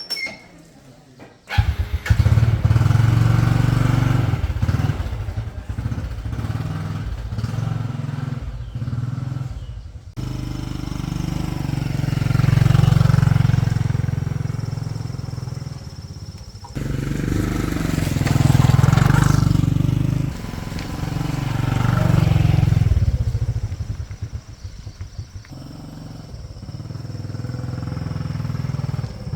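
A small vehicle engine running and revving up and down, starting suddenly about a second and a half in and breaking off abruptly twice.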